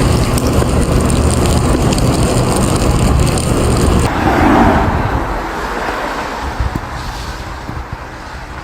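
Motor vehicle engine and road noise, a steady low rumble that changes abruptly about four seconds in, then fades gradually.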